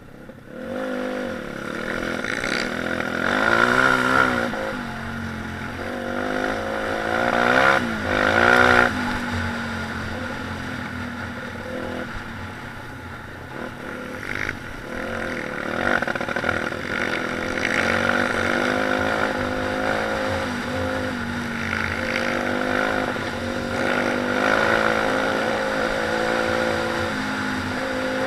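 Pit bike engine revving up and down as the bike is ridden, with two hard revs about four and eight seconds in, then running at a steadier speed with smaller rises in pitch.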